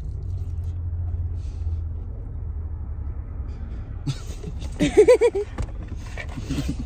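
Low steady rumble of a car idling, heard from inside the cabin. About five seconds in comes a short burst of laughter.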